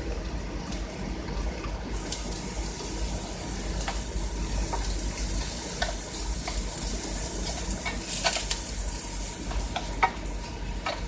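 Asparagus and ham sizzling in a frying pan with oil and a splash of water. The hiss comes up about two seconds in and holds, with scattered clicks of a utensil stirring and scraping the pan.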